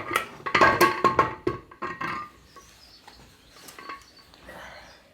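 Steel gearbox parts clinking and clattering as they are handled on a workbench: a quick run of sharp, ringing clinks in the first two seconds, then a few sparse taps.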